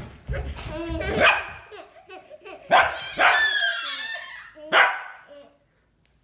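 A dog barking and vocalizing in a few loud calls that bend in pitch. The longest is drawn out around the middle, and it falls quiet near the end.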